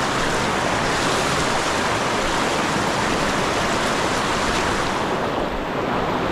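Steady rushing of river water, an even hiss-like noise with no breaks.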